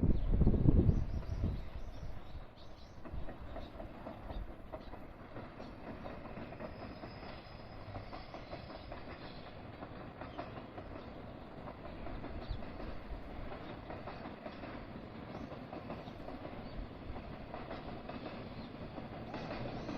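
A train running past on the Sanyo Main Line, its wheels clacking over the rail joints. It is loudest in the first second or so, then settles into a steady rumble with repeated clacks.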